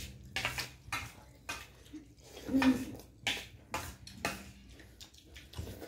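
A spoon or fork clinking and scraping on a plate during a meal: a string of irregular short clinks, with a brief hum about two and a half seconds in.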